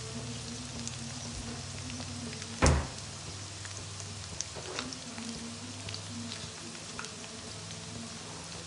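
Sliced onions and green chillies sizzling in hot oil in an aluminium kadhai over a medium gas flame, with scattered small crackles and a steady low hum underneath. A single loud knock sounds a little under three seconds in.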